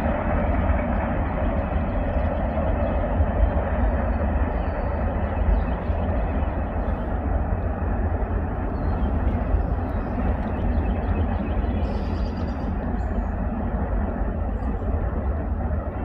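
Freight train rolling past, a steady rumble of railcars on the track.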